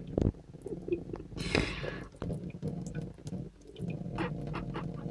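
Water from a kitchen tap dripping and splashing into the sink, a run of small irregular drips with one short louder splash about one and a half seconds in.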